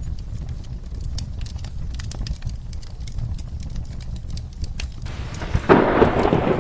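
Wood fire crackling with scattered sharp pops over a low steady rumble. About five seconds in, a roll of thunder with rain rushes in and becomes the loudest sound.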